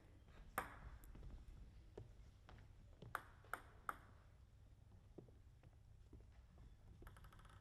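Faint, sharp clicks of a table tennis ball: one about half a second in, then three quick bounces a little after three seconds, coming slightly closer together.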